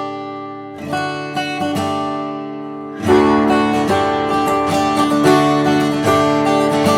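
Background music on acoustic guitar: a few plucked notes at first, then fuller strumming from about three seconds in.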